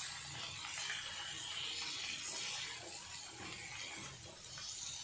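Eggs and onions sizzling steadily in a kadai while a steel spoon scrapes and turns them against the pan.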